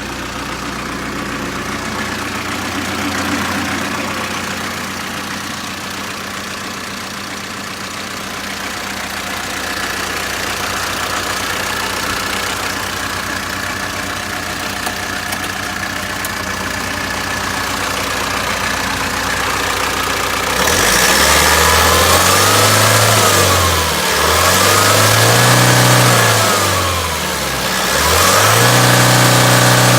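Mitsubishi Canter truck engine idling steadily, then revved three times near the end, each rev rising, holding briefly and dropping back.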